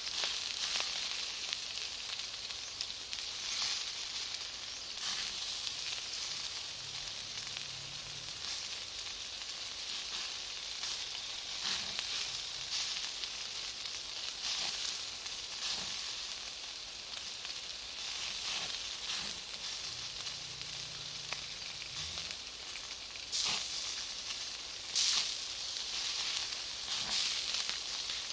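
Bonfire of firewood and Iwate cut charcoal crackling and hissing steadily, with frequent small pops and two sharper, louder pops near the end.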